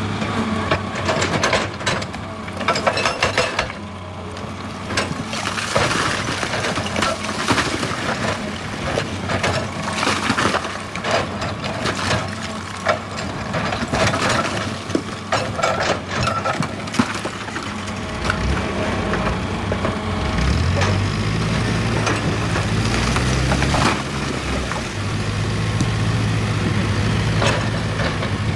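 Excavator at work: its engine running steadily under irregular clatter, knocks and scraping of the bucket in rock and earth, the engine growing louder about two-thirds of the way through.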